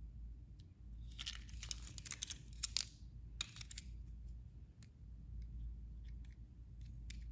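Handling noise from a small plastic battery toy train engine: a crackly run of scraping and clicks about a second in and a shorter one a little later, then faint ticks. No motor runs: the engine does not start when power is applied.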